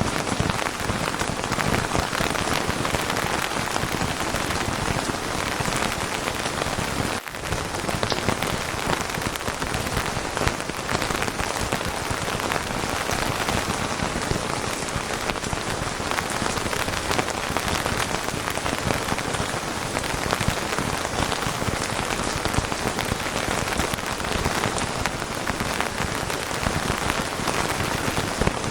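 Steady rain falling on a surface, many separate drops heard in the steady hiss, with a brief dip in level about seven seconds in.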